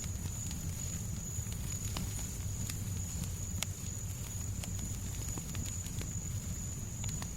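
Fireplace fire crackling, with scattered sharp pops over a steady low rumble and a thin high steady tone.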